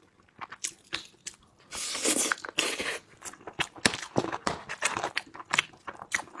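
Close-miked eating: a person chewing and biting braised pork intestine with rice, with a run of short wet smacks and clicks and a louder, longer noisy stretch about two seconds in.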